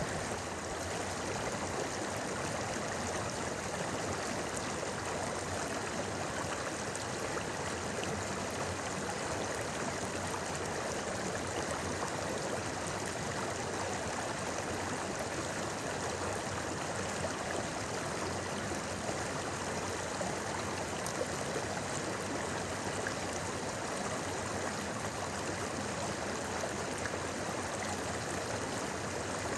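River water flowing over stones in a steady, unbroken babble and rush.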